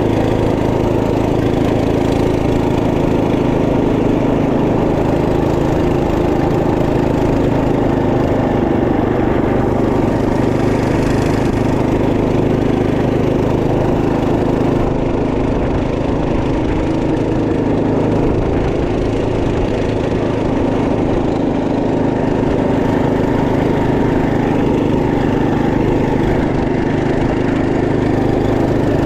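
Trail Master MB200 minibike's 212cc single-cylinder four-stroke engine running steadily while being ridden, holding a near-constant speed.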